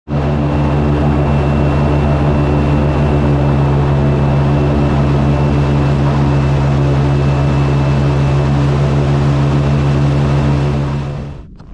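Boat motor running steadily at a constant speed, a low even engine note with a faint high whine; it drops away suddenly near the end.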